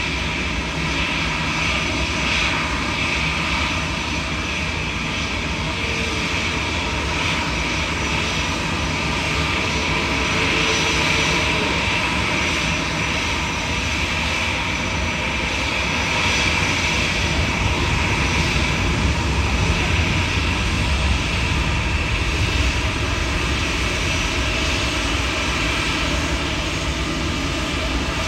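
Airliner jet engines running: a steady rushing noise with a high whine, growing a little louder past the middle.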